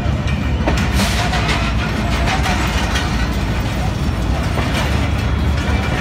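Pakistan Railways passenger coaches rolling past as the train pulls out of the station: a steady low rumble with irregular clicks and clanks of the wheels over the rail joints.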